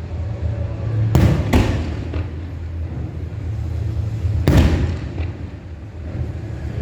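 Fireworks shells bursting: two booms close together about a second in and a third, louder one later, each with a trailing echo, over a steady low rumble.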